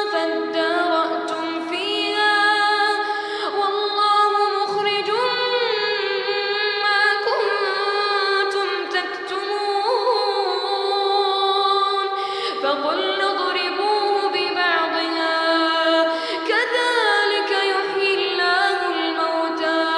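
A boy's voice reciting the Quran in the melodic tajweed style, drawing out long held notes with ornamented rises and falls in pitch.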